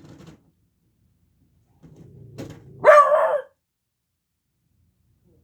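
Beagle puppy giving one loud, drawn-out bay about three seconds in, led into by a low grumble, at a noise heard through a basement vent.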